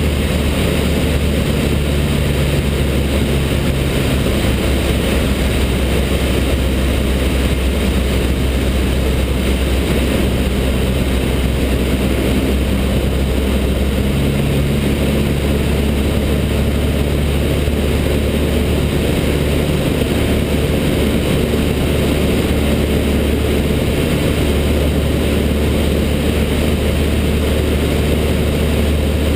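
Cessna 152's four-cylinder Lycoming O-235 engine and propeller droning steadily in flight over a constant rush of air, the engine note shifting slightly about halfway through.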